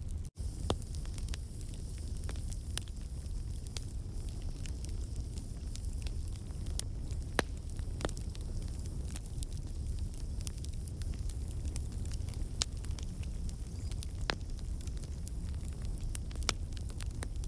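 Wood campfire burning, with a steady low rumble of flame and scattered sharp crackles and pops from the logs as water and sap in the wood turn to steam. The sound cuts out for an instant just after the start.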